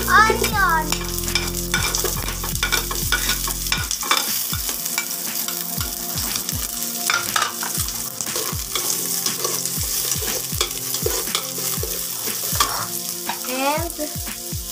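Garlic and onion sizzling in hot oil in an aluminium pot, stirred with a spatula that knocks and scrapes against the pot many times. Short high squeaky glides sound at the start and again near the end.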